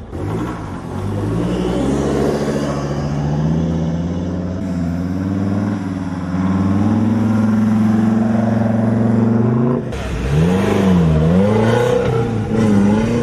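Off-road 4x4 rally vehicle's engine revving and pulling under load as it drives off, the pitch climbing and swaying. About ten seconds in the engine note changes abruptly, and the revs swing quickly up and down.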